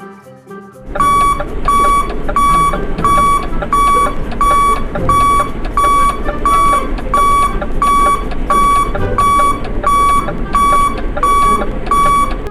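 Electronic beeper sounding a steady series of short high beeps, about one and a half a second, over a rough rumbling noise; it starts about a second in.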